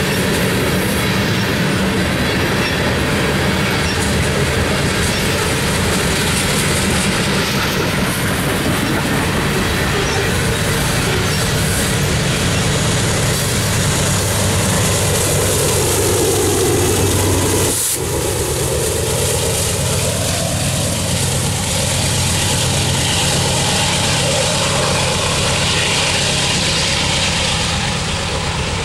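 Loaded freight cars rolling past with steady wheel and rail noise and clickety-clack, then the rear GE C44-9W diesel locomotive, running as a distributed power unit, passes with its engine running. The sound breaks off suddenly about two thirds of the way in, and the rumble of the train carries on after it.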